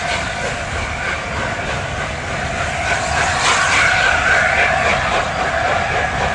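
Steam-hauled passenger coaches rolling across a steel girder bridge: a steady rumble of wheels on rail that swells a little midway.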